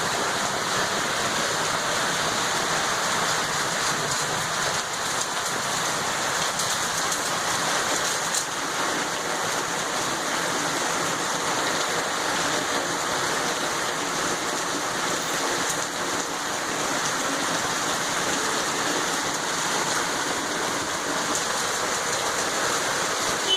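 Rain from a storm pouring down steadily, an even, unbroken hiss of drops.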